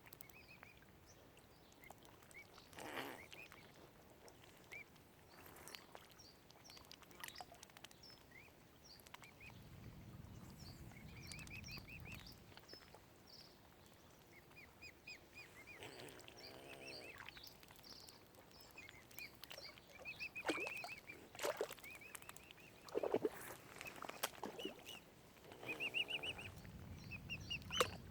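Mute swan cygnets peeping in repeated short runs of high calls, with a few lower honking calls from waterfowl and some sharp knocks mixed in.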